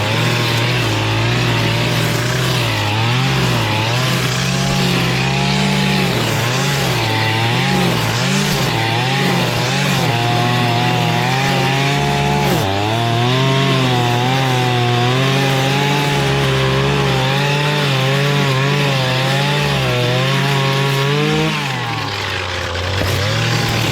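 Gas-powered two-stroke string trimmer running at high throttle and cutting grass, its engine pitch wavering as the throttle is worked, with a short dip about halfway through and the throttle let off briefly near the end.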